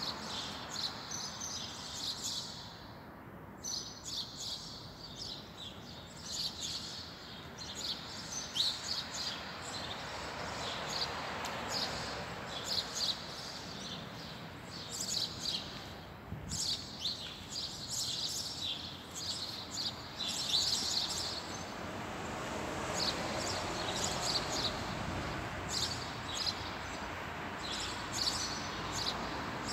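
Small birds chirping, many short high chirps coming again and again, over steady outdoor background noise.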